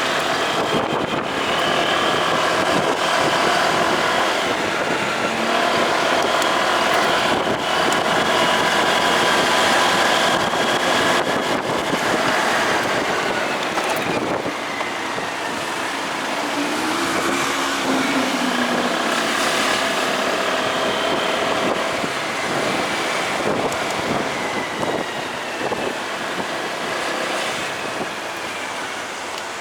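Motorcycle riding through road traffic: a steady mix of engine and road noise, with a lower engine note rising and falling a little past the middle.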